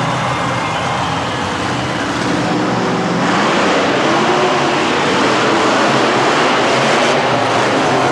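Monster truck engines running loud, getting louder about three seconds in.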